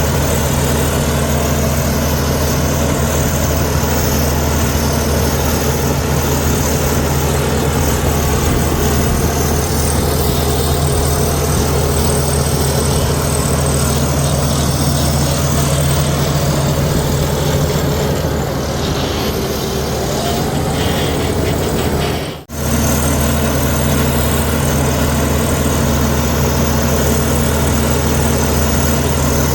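Heavy diesel engine of a Komatsu D61EX bulldozer running steadily at a constant note. It eases off slightly about two-thirds of the way through, and the sound cuts out for an instant shortly after.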